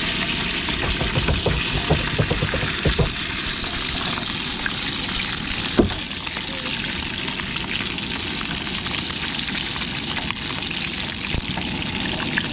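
Sausages sizzling in a pan with a steady hiss, with a few low knocks in the first seconds and one sharp knock about six seconds in.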